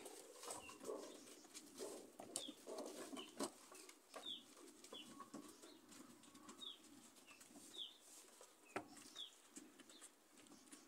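Faint, short high-pitched bird chirps, each a quick falling note, repeating irregularly about once a second, with scattered light knocks and rustles from goats' hooves on wooden boards and a tarp.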